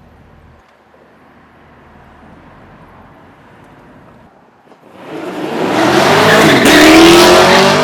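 A V8 muscle car engine running low, then about five seconds in it revs up hard and loud, climbing in pitch before easing off near the end.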